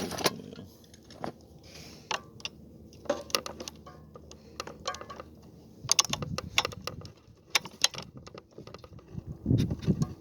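Metal hand tools clicking and clinking in scattered sharp taps, with a few duller knocks, as a wrench and screwdriver are handled and worked on a chainsaw.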